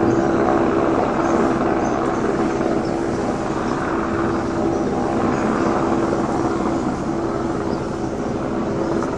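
Police helicopter hovering, its rotors and engine making a steady droning hum that swells and eases slightly in loudness.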